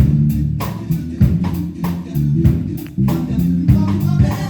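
Live band playing through a PA system: a bass guitar line, guitar and drum kit on a steady beat.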